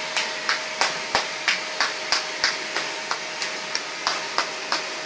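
Vacuum cleaner running with a steady whine, and a regular clicking about three times a second over it.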